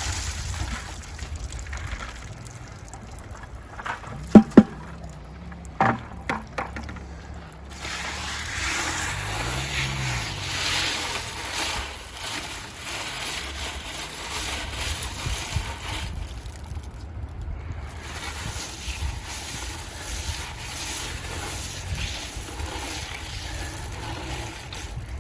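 Gravel and creek water being shaken through a hand-moved sifter screen drum: steady sloshing and rattling with some wind on the microphone. Two sharp knocks come about four seconds in and a few lighter ones near six seconds.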